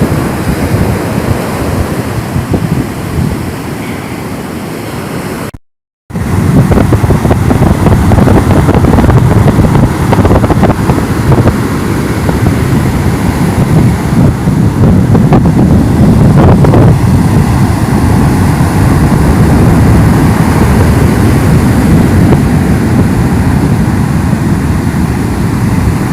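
Sea surf breaking on a sandy beach, with wind buffeting the microphone in a loud, rumbling rush. The sound cuts out for a moment about six seconds in, then comes back a little louder.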